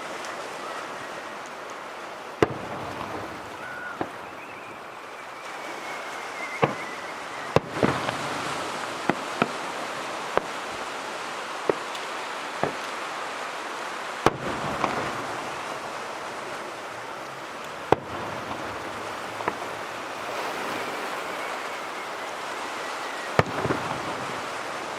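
Fireworks display: aerial shells bursting in sharp, scattered bangs, about a dozen, over a steady background hiss. A faint, slightly falling whistle comes twice, early and late.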